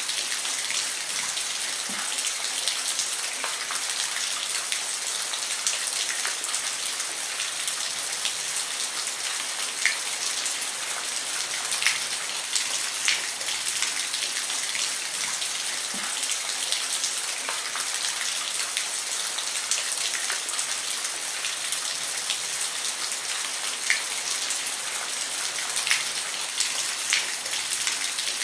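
Steady rain falling on a roof: an even hiss with scattered louder single drops ticking out of it now and then.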